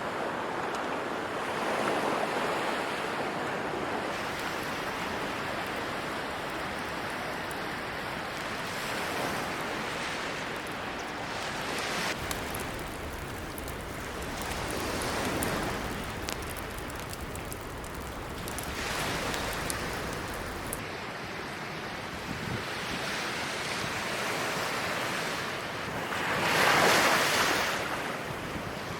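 Sea waves breaking on the shore, the surf swelling and falling back every few seconds, with the biggest wave near the end.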